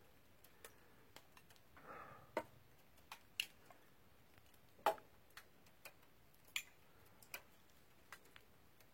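Wood campfire crackling, with sparse, irregular sharp pops; the loudest comes about five seconds in.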